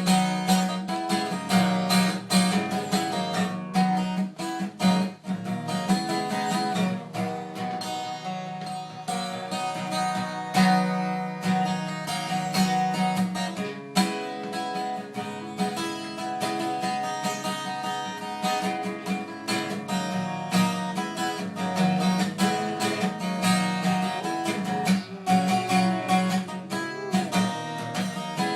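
Acoustic guitar jam: quick picked notes and strums over a recurring low bass note.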